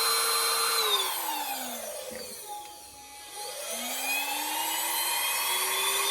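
Cordless handheld vacuum motor running steadily, then winding down about a second in until it nearly stops, and spinning back up over the last few seconds. The low battery kept it from going straight to its third setting.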